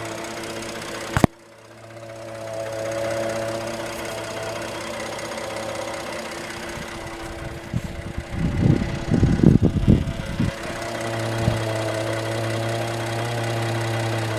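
2013 Ford F-150's engine running with a steady hum, the truck making the unusual noise its owner is chasing. A sharp click comes about a second in, and a burst of loud, irregular low thumping follows from about eight to ten and a half seconds.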